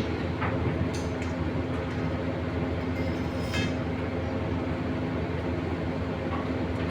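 Steady machine hum with a few light clicks and knocks.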